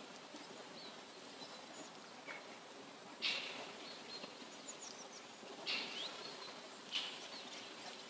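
Forest ambience: faint, high bird chirps over a steady background hiss, with three short, harsher calls standing out, a little after three seconds in, near six seconds and near seven seconds.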